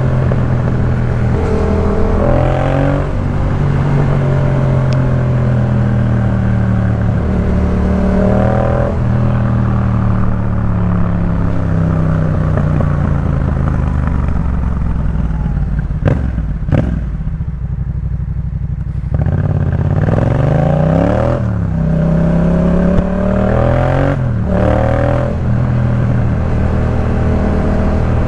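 Yamaha MT-07's parallel-twin engine through a Jeskap K4 full aftermarket exhaust, riding under way. Its pitch rises and falls with throttle and gear changes. About two-thirds through the rider backs off briefly, then the revs climb quickly again.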